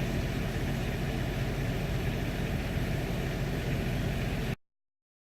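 A vehicle engine running steadily with an even low rumble, stopping abruptly about four and a half seconds in.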